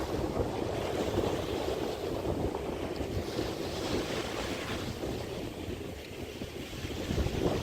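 Small Chesapeake Bay waves washing onto the beach, swelling and easing, with wind buffeting the microphone.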